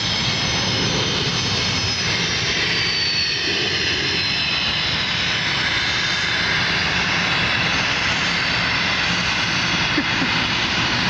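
Jet aircraft engines at takeoff thrust: a steady rush of noise with a faint high whine that slides slowly in pitch.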